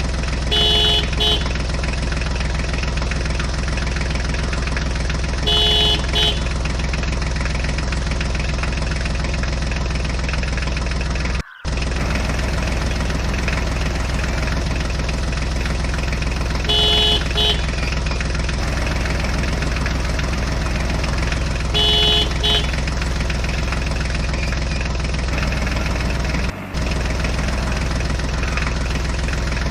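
A vehicle engine idles steadily, with a short double horn beep about a second in, again near six seconds, near seventeen seconds and near twenty-two seconds. The engine sound cuts out for a moment near the middle.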